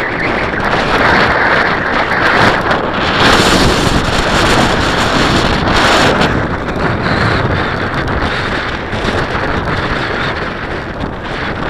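Strong gusty wind buffeting the microphone: a loud, rough rumble that swells and fades with the gusts, strongest in the middle and easing toward the end.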